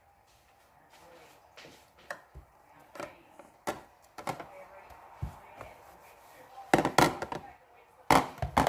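Containers and food being handled and set down in a fridge: scattered light knocks and clicks, with two louder clusters of clacks about seven and eight seconds in.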